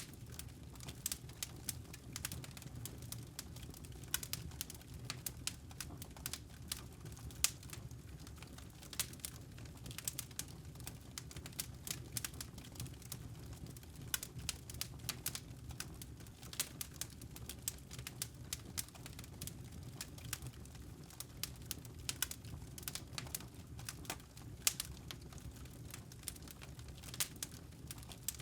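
A wood fire crackling and popping, with many irregular sharp snaps over a steady low rumble.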